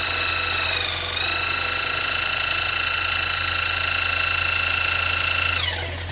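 High-pitched motor whining steadily, dipping in pitch briefly about a second in, then winding down near the end as it is switched off.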